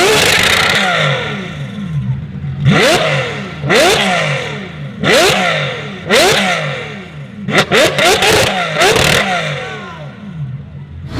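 Sports car engine revved hard in short throttle blips, about eight in all: each shoots up in pitch and falls away over about a second, with a quick flurry of blips near the end.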